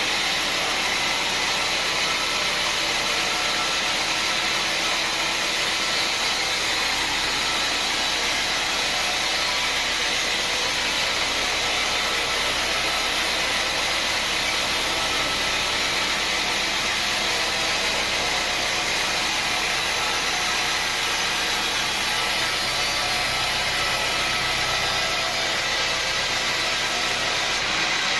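Sawmill machinery running steadily: a dense, even mechanical noise that does not change in level.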